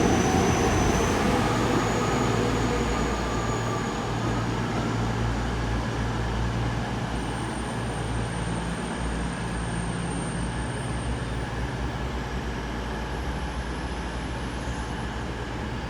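Class 159 diesel multiple unit pulling out of the station, its diesel engines and wheels rumbling steadily and fading slowly as it moves away.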